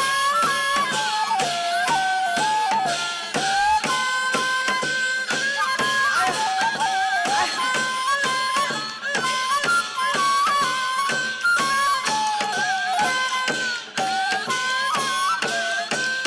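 Korean traditional ritual music: a wind instrument plays a continuous, ornamented melody with bends and trills over quick, steady drum strokes.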